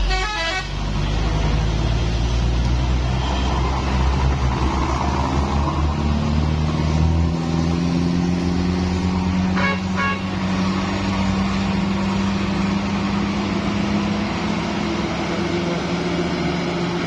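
Heavy truck engine pulling under load, its pitch slowly rising as it speeds up, with a short horn toot about ten seconds in.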